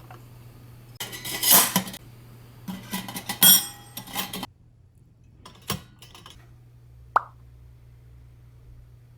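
Thin metal fire-pit parts being handled: two spells of scraping and clattering, then a few light knocks and a single short ringing clink.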